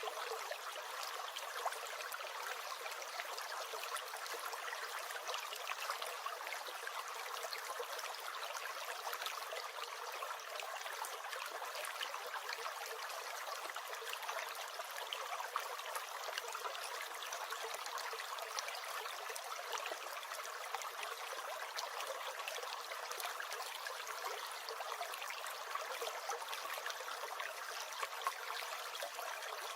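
Small stream gurgling steadily, an unbroken rush of flowing water dotted with tiny splashes and drips.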